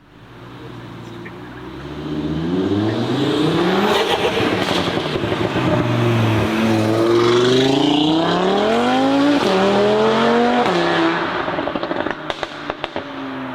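Audi RS3's turbocharged five-cylinder, modified with an aftermarket downpipe, accelerating hard through several gears: the engine note climbs and drops back at each upshift. Near the end it lifts off and the exhaust crackles and pops.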